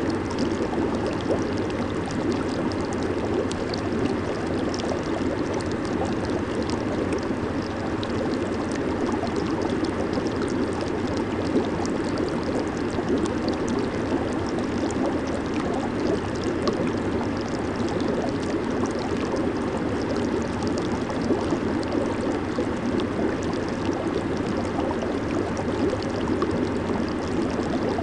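Jacuzzi water churning and bubbling steadily under its jets, a full low rush of water with fine fizzing and popping of bubbles on top.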